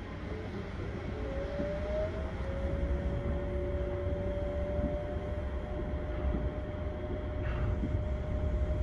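Rubber-tyred automated guideway train running, heard from inside the car: a steady low rumble of tyres on the guideway, with an electric motor whine that rises in pitch about a second in and then holds steady.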